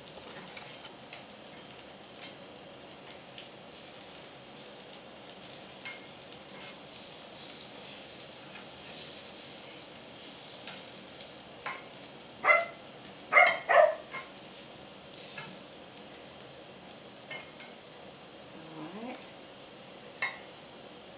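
Aebleskiver batter frying steadily in an aebleskive pan, with light ticks of a knitting needle against the pan as the balls are turned. Three loud knocks come about halfway through.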